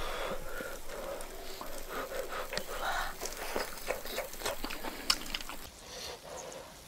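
Close-up mouth sounds of a person eating a hot baked oyster: chewing with many small, irregular wet clicks.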